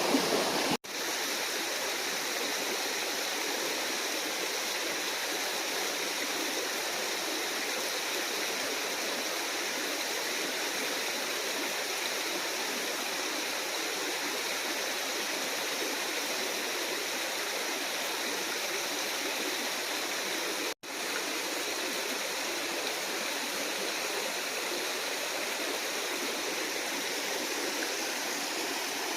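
Waterfall water rushing in a steady, even roar, cut off for an instant twice: once just under a second in and once about 21 seconds in.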